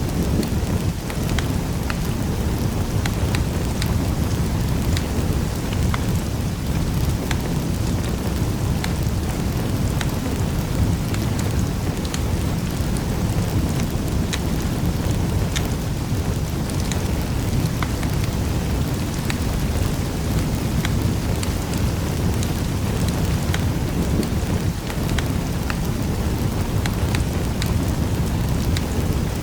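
Fire crackling in a fireplace: many scattered sharp pops and snaps over a steady low rumble.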